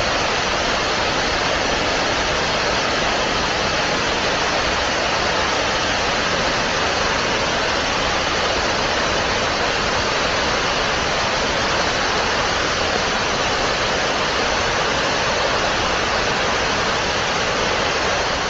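Waterfall in heavy flow: a loud, steady rush of falling water that fades out near the end.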